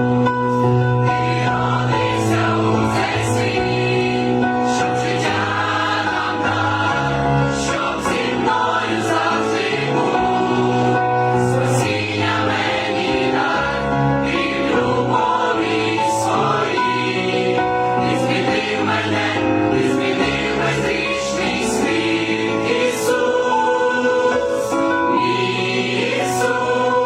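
Church choir singing a Ukrainian Christmas carol, with held sung notes over steady low accompanying notes.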